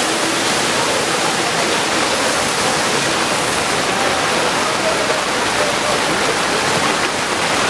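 Floodwater from a heavy downpour rushing, a steady loud rush of water noise.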